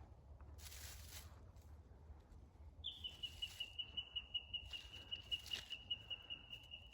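A bird's high, rapid trill of evenly repeated notes on one pitch, starting about three seconds in and running steadily on, with faint rustling of leaves before it.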